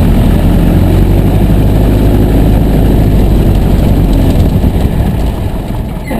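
Piper J3C-65 Cub's Continental A-65 four-cylinder engine idling steadily, then dying away near the end as it is shut down.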